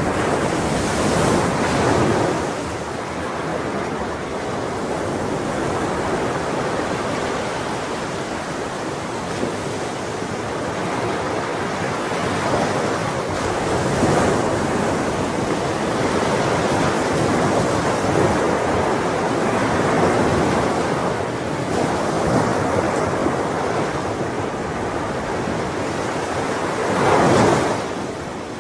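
Ocean waves breaking and washing on a shore, a continuous rush of surf that swells every several seconds, strongest near the end.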